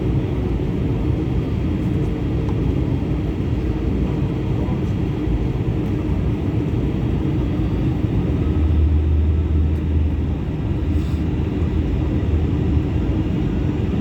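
Cabin noise inside an Airbus A321 airliner: a steady rumble of engines and airflow, with a deeper low hum swelling in for a few seconds past the middle.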